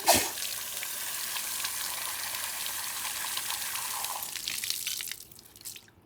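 Water running from a tap and splashing while vacuum cleaner parts are rinsed, opening with a knock and dying away about five and a half seconds in.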